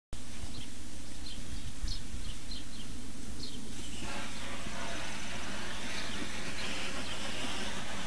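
Outdoor ambience with a low steady hum, and small birds chirping in quick short notes through the first half. About halfway through, a steady hiss comes in and stays.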